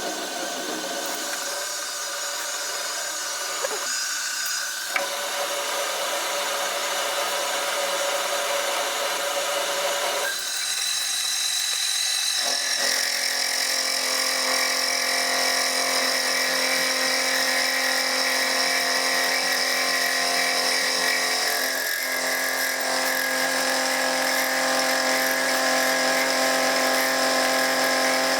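Electric power tool motor running steadily, a whine made of many steady tones that shifts in tone several times, about five, ten, twelve and twenty-one seconds in. Two light clicks come at about four and five seconds.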